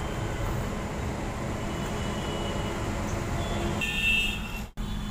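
Steady low engine hum, with a faint higher tone about four seconds in and a sudden brief dropout just before the end.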